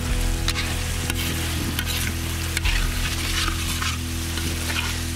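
Mutton curry sizzling in a large iron kadai while a perforated metal spoon stirs and scrapes through it, in repeated short strokes over a steady frying hiss.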